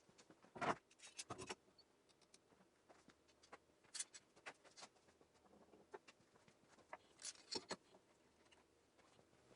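Faint, scattered taps, clicks and short scratching sounds of small handwork, the loudest about half a second in, with more around four and seven and a half seconds in.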